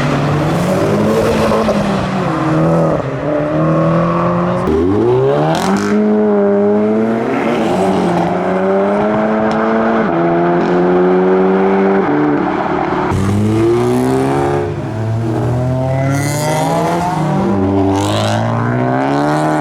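Modified cars' engines accelerating away one after another. Their pitch climbs repeatedly and drops back at each gear change.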